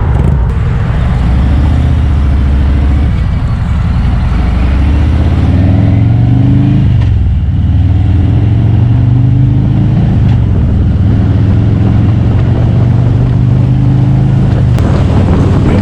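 Motorcycle engine running under way, its pitch climbing, then dropping sharply about seven seconds in at a gear change before running steady.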